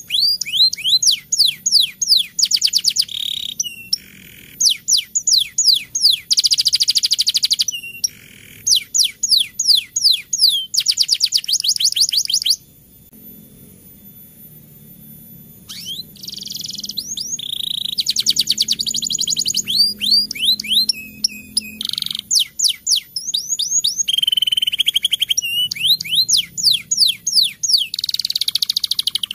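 Domestic canary singing a long rolling song: fast trills of rapid, repeated falling notes in quick succession, changing from one trill to the next. The song breaks off for about three seconds a little under halfway, then resumes.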